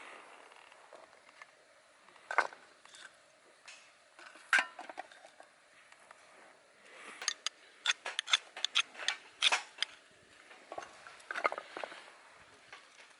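Scattered small clicks and clatters of hard objects being handled, with a quick run of clicks about seven to ten seconds in.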